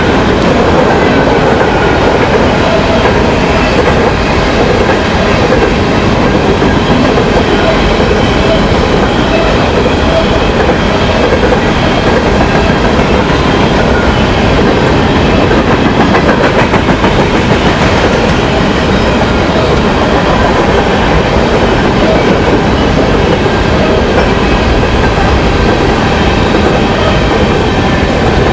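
A train's cars rolling past close by: a loud, steady rumble of wheels on rails that runs on without a break, with faint steady squealing tones from the wheels above it.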